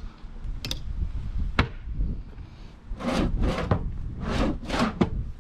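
Wooden furniture being handled: a couple of sharp knocks, then a quick run of rough scraping and rubbing strokes about three seconds in.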